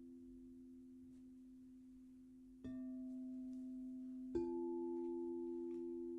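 Crystal singing bowls ringing with steady, pure tones. A bowl is struck about two and a half seconds in and another about four and a half seconds in, each adding a new sustained tone over the slowly fading ring.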